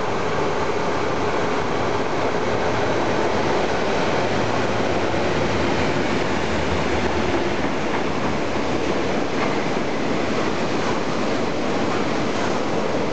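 Freight train hauled by MTR diesel locomotives Nos. 56 and 58 passing close by: the locomotives' diesel engines running as they go past, giving way to the steady rumble and clatter of boxcar wheels on the rails.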